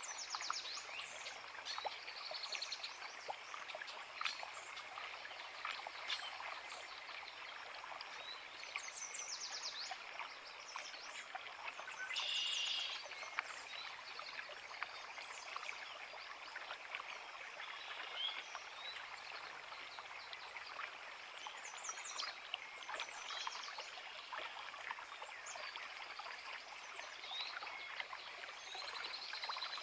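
A forest creek running steadily over rocks, with wild birds singing and calling on and off over it; one bird call a little before halfway is louder than the rest.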